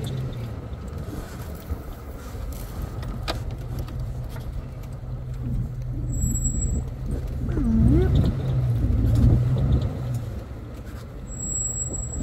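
Jeep Cherokee's engine running steadily as it crawls along a rough dirt trail in four-wheel drive, with a dip and swell in engine pitch and loudness about eight seconds in and a few knocks from the ride.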